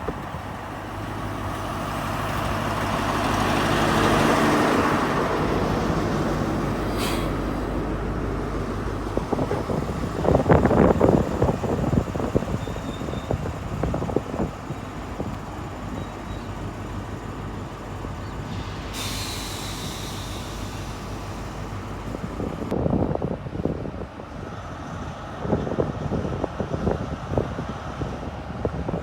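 Class 43 HST power car's diesel engine running, its note swelling to a peak about four seconds in and then fading away. A few seconds of hiss cut off suddenly about two-thirds of the way through.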